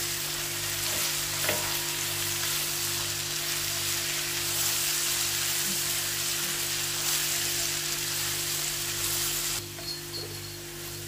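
Chopped onion and ginger-garlic paste sizzling in hot oil in a nonstick pot, stirred with a spatula, over a steady low hum. The sizzle eases a little near the end.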